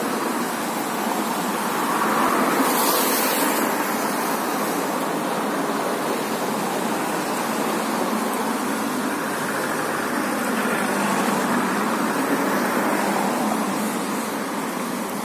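Steady rolling noise of a Lastochka electric multiple-unit train running past, with a brief high hiss about three seconds in.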